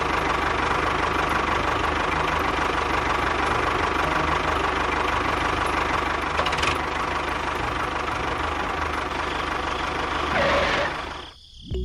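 Engine running steadily with a rapid knocking pulse, then dropping away shortly before the end.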